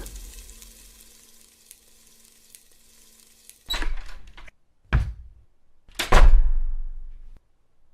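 Three heavy foley thuds a little over a second apart, the last one the loudest, each dying away quickly, after a few seconds of faint hum.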